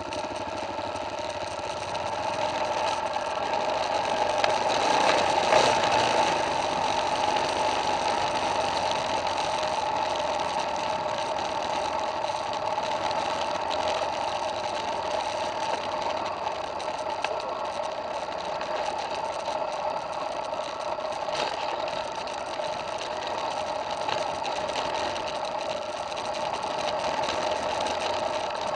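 Dirt bike engine running steadily as the motorcycle rides a dirt trail, growing louder for a moment about five to six seconds in.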